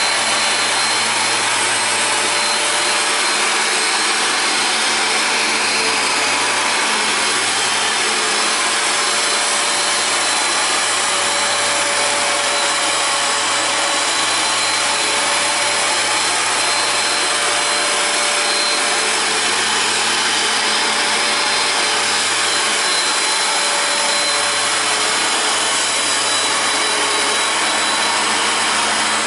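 Hoover Power Dash carpet cleaner running steadily, its suction motor giving a constant rushing whine with a faint high tone on top.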